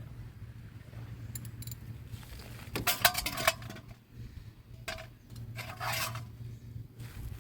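Metal tools and parts clinking and rattling as they are handled, in a few short bursts, the loudest about three seconds in.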